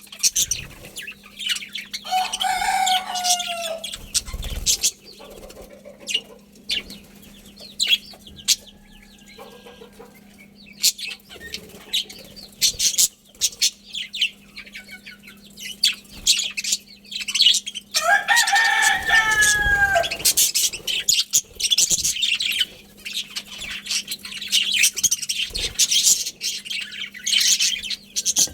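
A budgie colony chirping and chattering in many quick high notes, with a rooster crowing twice, each crow about two seconds long and falling in pitch at the end. A steady low hum runs underneath.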